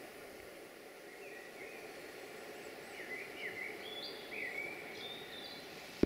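Wild birds chirping in short, gliding phrases over a steady outdoor background hiss.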